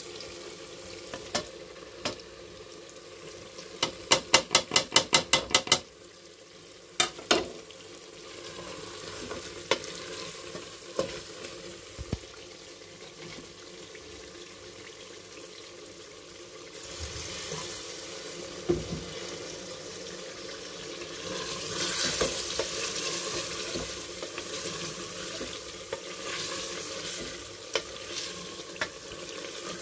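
Mutton pieces frying in oil in an aluminium pressure-cooker pot, stirred and scraped with a wooden spoon. About four seconds in there is a quick run of about ten sharp knocks, the loudest sound, and the sizzling grows louder in the second half.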